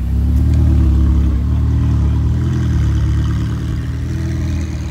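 A car engine running loudly at low speed, its pitch rising and falling with the throttle, loudest about a second in and then slowly fading.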